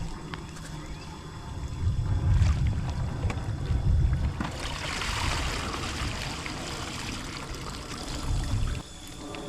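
Pool water splashing and trickling, with a heavy, uneven low rumble; the splashing is strongest about halfway through.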